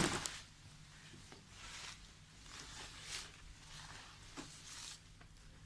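Short bursts of rustling and scuffing from hedge-clearing work, about four of them, the first the loudest, as a laurel stump is strained at and worked loose. A faint steady low hum runs underneath.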